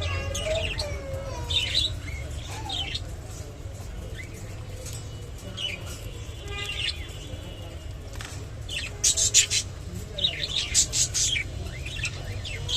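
Budgerigar chirping in short, scattered high calls, growing busier with quick sharp bursts in the later part, over a steady low hum.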